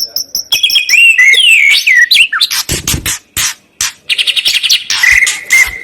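Songbird singing a rapid, varied song: sliding whistles, fast trills and sharp clicking notes, ending on a held whistle.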